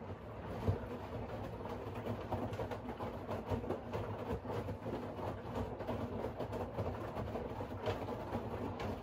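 Siemens iQ700 front-loading washing machine running, its drum turning the wet laundry, with a steady low hum and a patter of small knocks.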